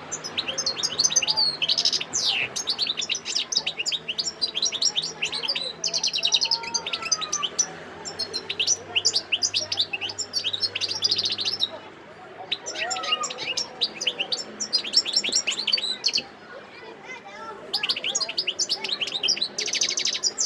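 Wild-caught European goldfinch singing: long bouts of rapid twittering and trilled phrases, with short pauses about twelve and sixteen seconds in.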